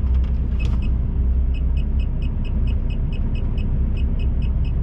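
HGV lorry's diesel engine running with a low steady rumble in the cab during slow manoeuvring, joined about one and a half seconds in by a rapid high-pitched electronic warning beep, about six beeps a second.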